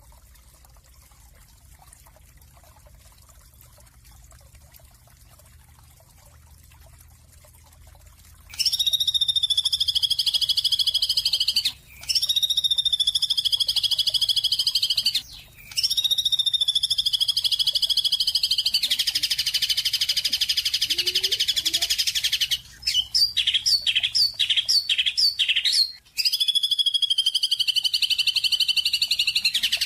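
A songbird singing loud, high-pitched trills a few seconds long, cut apart by abrupt short gaps, with a quick run of repeated notes near the end; the first several seconds hold only a faint low hiss before the song starts.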